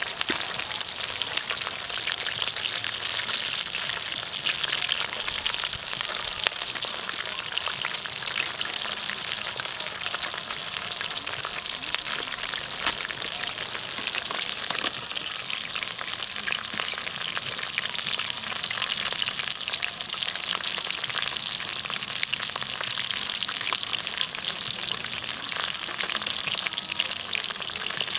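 Food sizzling steadily in a hot pan, a dense crackling hiss.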